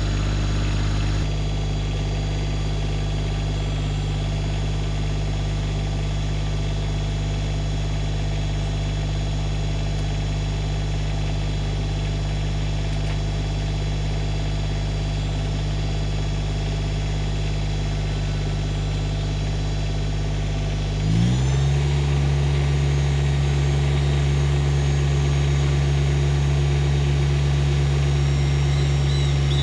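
New Holland Workmaster 25S compact tractor's diesel engine running steadily at low speed, then throttled up about two-thirds of the way in, climbing quickly to a higher steady speed.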